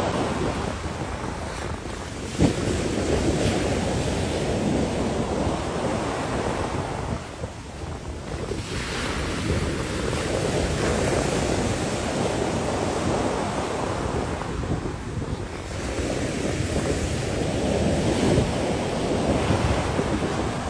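Sea waves washing in and drawing back in swells that rise and ease, with wind buffeting the microphone. There is a single sharp knock about two and a half seconds in.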